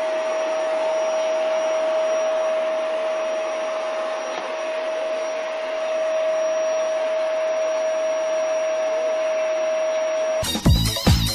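Steady whir of a running electric appliance motor with a fan, with one constant high hum tone over the hiss; it stops abruptly near the end.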